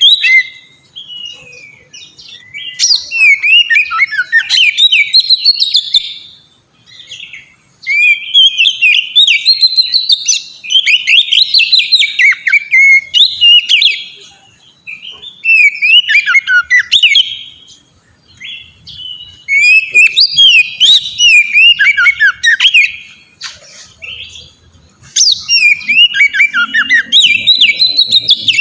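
Oriental magpie-robin (kacer) in full song: loud, fast runs of varied whistled and chattering notes in phrases of a few seconds each, with short pauses between them.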